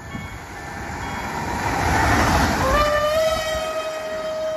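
Newag Impuls electric multiple unit passing, its running noise swelling to a peak about two seconds in. Just past halfway a horn starts: one long steady note that rises briefly in pitch as it begins, then holds.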